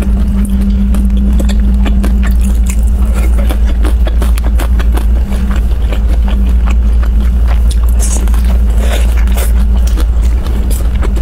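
Close-miked chewing and biting into pan-fried dumplings: a dense run of short clicks over a steady low hum.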